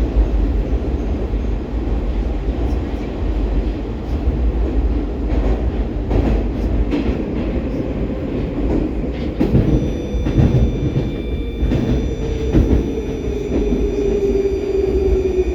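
Baltiets metro train heard from inside the car, running through the tunnel: a steady low rumble of wheels on rail, broken by clicks at the rail joints. From about two-thirds of the way in, the traction drive adds a whine with several steady high tones and one lower tone that slowly falls in pitch as the train begins to slow for the next station.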